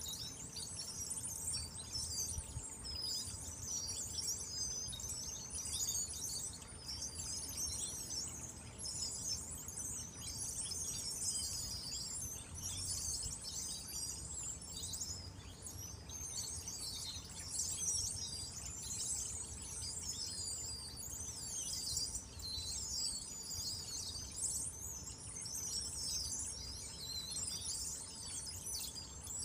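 A flock of small birds chirping all at once: many short, quick, high calls overlapping into a continuous twittering that sounds like a trickling stream.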